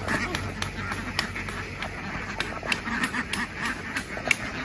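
A large flock of domestic ducks quacking together in a dense, continuous din, with many sharp clicks scattered through it and one louder click near the end.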